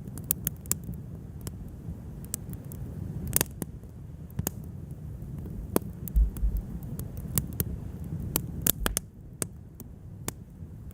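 Wood fire crackling: irregular sharp pops and snaps over a steady low rumble, with a few dull low thumps about six seconds in.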